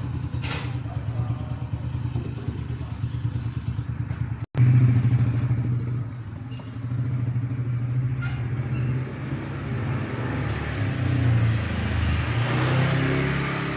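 Diesel engine idling with a rapid, even low throb. An abrupt cut comes about four and a half seconds in, after which it is louder, and a hiss builds near the end.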